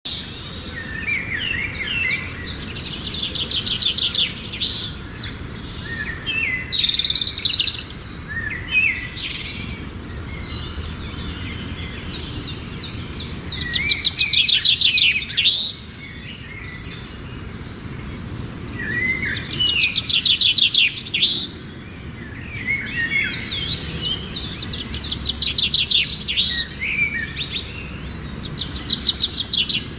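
Small birds singing: repeated phrases of rapid, high trills and chirps, one burst every few seconds, over a steady low background hiss.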